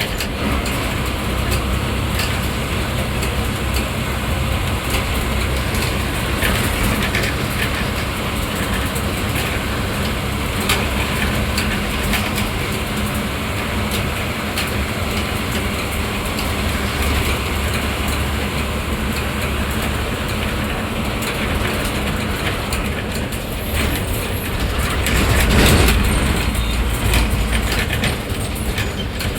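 Bus engine running and road noise heard from the driver's cabin, with a steady low drone and frequent small rattles of the body. The drone swells louder for a few seconds near the end.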